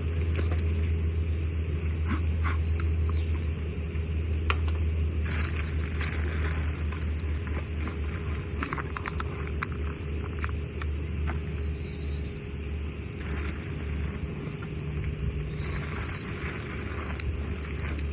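Insects chirping in a steady, high, continuous trill over a low steady hum, with scattered faint clicks.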